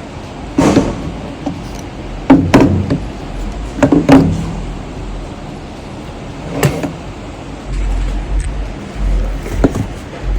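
Metal tools and parts clanking and knocking now and then, about seven sharp knocks with short ringing, a pair about 2.5 s in and another about 4 s in, over a low steady rumble.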